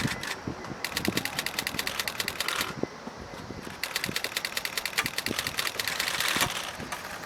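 Camera shutters firing in rapid continuous-shooting bursts: one about two seconds long starting about a second in, then a longer one about four seconds in.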